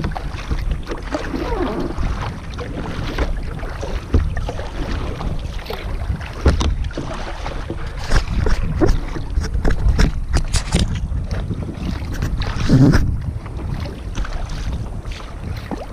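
Kayak paddling on open water: scattered splashes and knocks from the paddle strokes over a steady low rumble of wind on the microphone.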